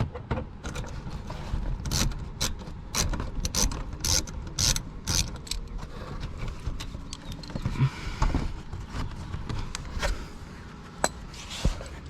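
Metal hand tools clicking, clinking and scraping in a series of sharp, irregular clicks as Torx screws are worked out of a car's underbody splash shield.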